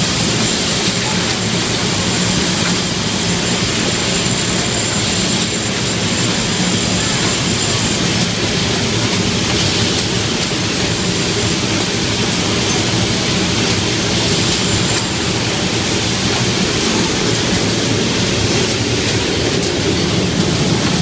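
Lamp-making machinery on a light-bulb production line, the exhaust machine, pick-and-place and basing machine, running continuously with a steady loud mechanical din and hum. A thin high whine runs through it and stops about eight seconds in.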